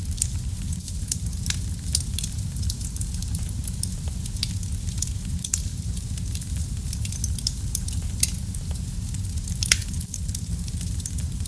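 Wood fire burning in a fireplace: a steady low rumble with frequent crackles and pops, two of them sharper near the end.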